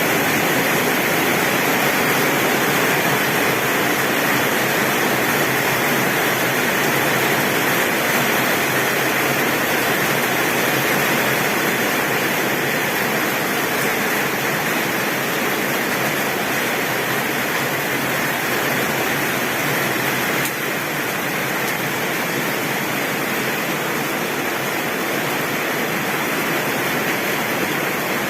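Heavy rain falling on a tin roof: a steady, dense hiss that does not let up.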